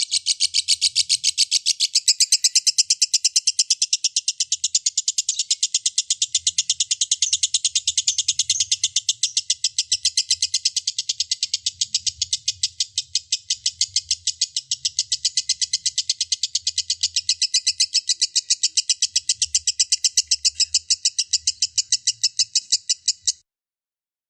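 Lovebird in a long 'ngekek' chatter: a rapid, unbroken run of shrill, sharp notes, several a second, that cuts off abruptly near the end.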